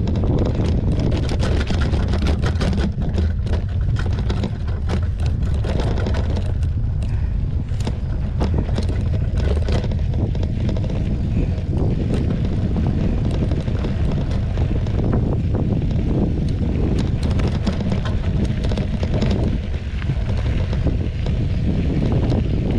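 Wind rushing over the microphone during a fast mountain-bike descent, with the bike's frequent knocks and rattles over a rough, rocky trail.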